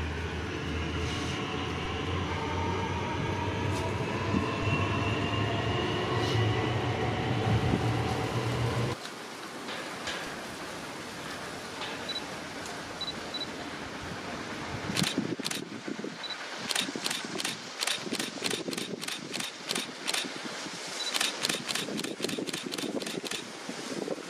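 A train on the move. First comes a low rumble with a slowly rising whine, which cuts off suddenly about nine seconds in. After a quieter stretch come runs of sharp clicks, about three a second.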